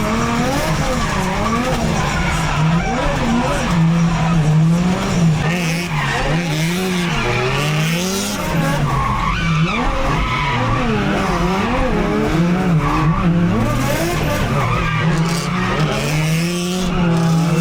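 550 hp Nissan S13 drift car sliding, its engine revs rising and falling over and over, about once a second, with the tyres squealing and skidding underneath.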